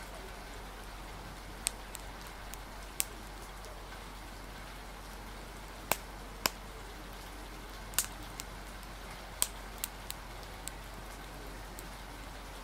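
Steady rain hiss with a wood fire crackling over it: sharp single pops at irregular intervals, about ten in all, with a steady low rumble underneath.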